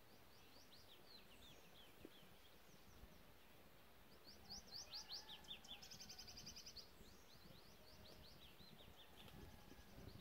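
Small songbirds singing faintly: runs of quick, high, down-slurred chirps, loudest in the middle, with a fast buzzy trill partway through.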